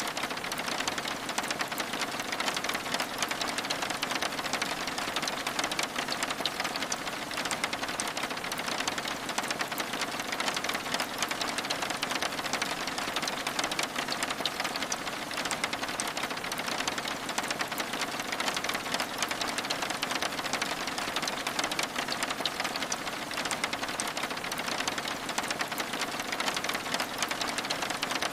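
Steady rain, a dense even patter of many small drop ticks on the window glass with no change or pause.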